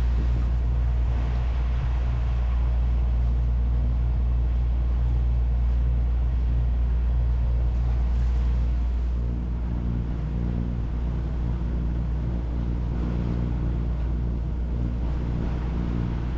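A Tartan 37 sailboat's inboard diesel auxiliary engine runs steadily under way, a low continuous drone. Its tone shifts slightly about nine seconds in.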